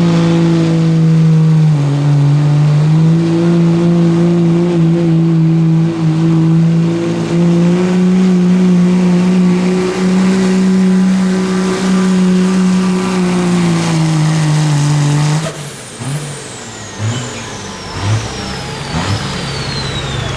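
Pulling vehicle's engine running at high, nearly steady revs under full load down the track, its pitch dipping briefly about two seconds in. About fifteen seconds in the engine falls off suddenly as the run ends, and a high whine then falls away in steps.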